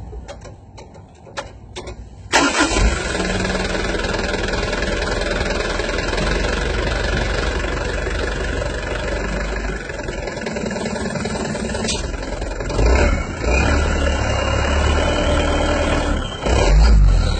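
Mitsubishi Canter diesel truck engine starting about two seconds in, then running at idle, revved briefly a couple of times near the end.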